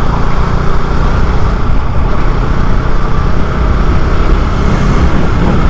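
Bajaj Dominar 250 motorcycle cruising at highway speed: steady wind rush on the microphone over the engine's low drone.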